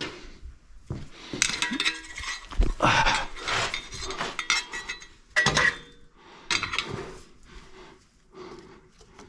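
Metal hand tools and fittings clinking and rattling as they are picked up and handled, in a run of irregular clatters.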